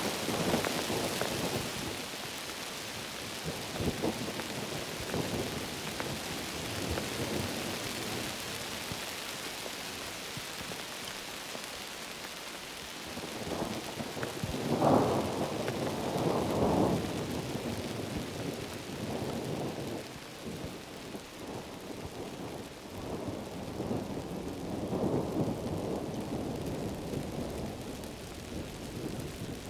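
Heavy rain pouring steadily, with low rumbles swelling and fading several times, loudest about halfway through.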